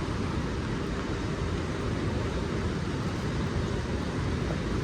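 Steady outdoor city ambience in the rain: an even hiss of rain with the wash of street traffic.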